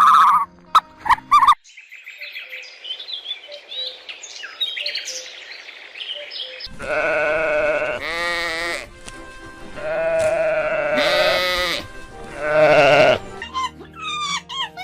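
Three long, wavering bleats from sheep or goats over background music, after a few seconds of faint high chirping.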